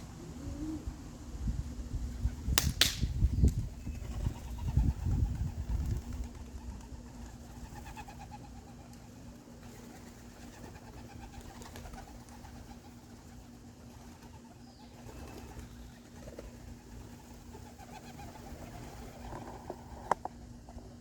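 Domestic pigeons cooing, with wind buffeting the microphone as a low rumble for the first several seconds and a sharp click about two and a half seconds in.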